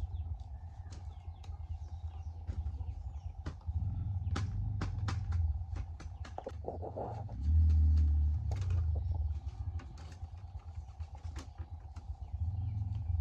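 Bamboo being worked by hand: irregular sharp clicks and knocks. Underneath runs a low rumble that swells and fades, with a faint steady hum.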